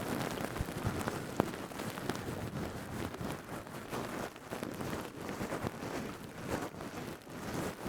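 Stainless steel scrubber being rubbed and squeezed close to the microphone, a steady dense crackle of many fine clicks.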